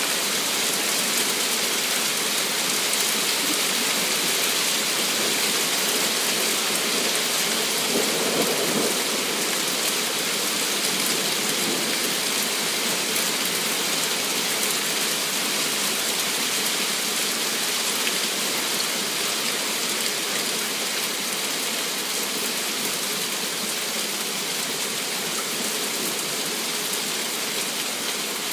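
Hail and rain falling heavily in a storm: a steady, dense hiss of countless hailstones and drops striking surfaces, even throughout.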